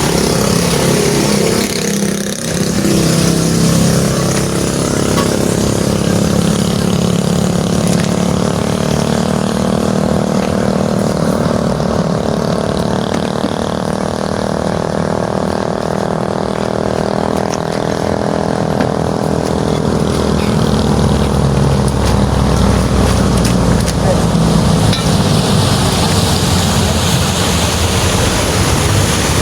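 Diesel truck engine running steadily.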